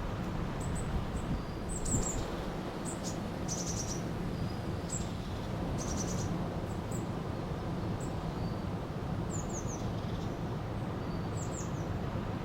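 Steady rush of a flowing river with small birds chirping and trilling over it, short high calls scattered throughout.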